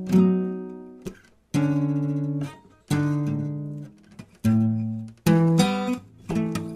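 Acoustic guitar music: chords strummed about once a second, each ringing out and dying away before the next.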